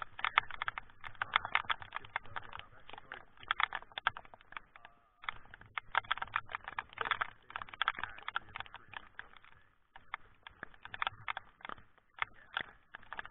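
Heavy typhoon rain, the drops striking close to the microphone in a dense, irregular tapping and crackling, with brief lulls about five and ten seconds in.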